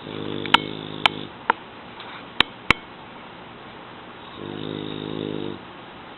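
A young French bulldog, a flat-faced breed, snoring: two pitched snores, each a little over a second long, about four seconds apart. Five sharp clicks come in the first three seconds.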